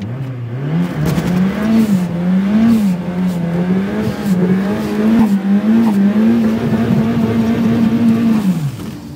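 Ford Cosworth's turbocharged four-cylinder engine, heard from inside the car, revved up and held at high revs, rising and dipping repeatedly, then dropping back near the end.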